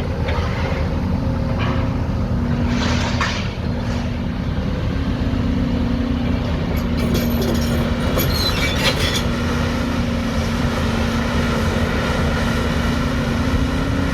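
A heavy engine running steadily with a low hum, broken by short bouts of rattling and clattering.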